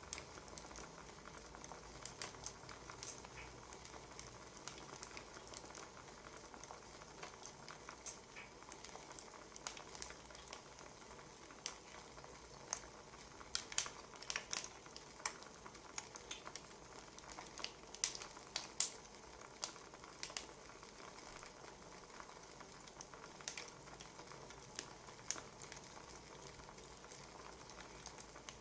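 Low-level crackling of a wood fire: irregular sharp pops and snaps over a steady soft hiss, with a cluster of louder pops about halfway through.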